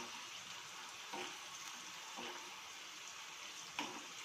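Peanuts, chana dal, green chillies and curry leaves frying in oil in a steel kadai: a steady sizzle, with a metal ladle scraping through the pan three times.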